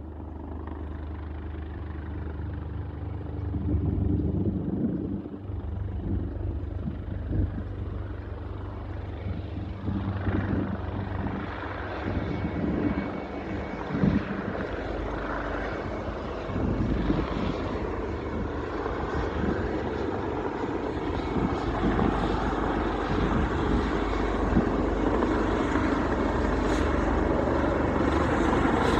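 Search-and-rescue helicopter's rotors and turbine engines running as it comes in to land, with a low steady thrum that grows gradually louder and broader over the stretch.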